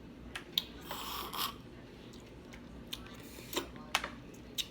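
Close-up eating sounds: several sharp clicks and two short crackling stretches of food being handled and chewed.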